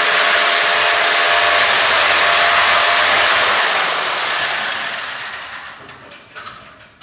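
Electric drill running steadily while boring a hole at a high spot, then fading out over the last few seconds.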